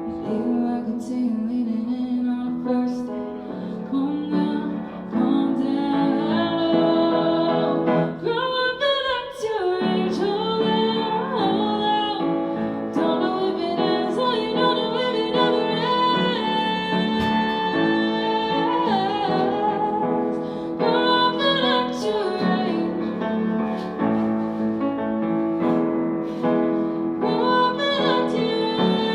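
Live pop song: a woman singing over instrumental accompaniment, her voice gliding between notes.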